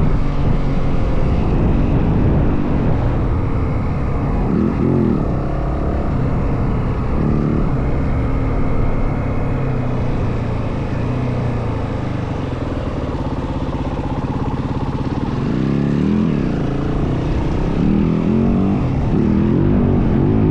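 Yamaha WR450F dirt bike's single-cylinder four-stroke engine running under way, its pitch rising and falling as the throttle is worked, with rumbling wind noise.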